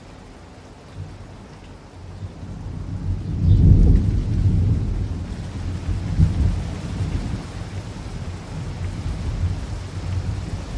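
Steady rain with a long roll of thunder that swells about three seconds in and keeps rumbling, rising and falling.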